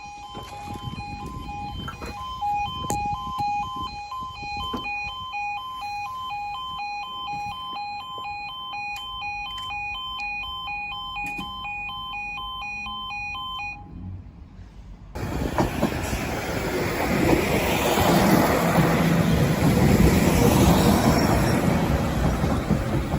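Level crossing warning alarm sounding in quick, even pulses on two tones, stopping about 14 seconds in. About a second later a train passes the crossing with a loud rushing rumble.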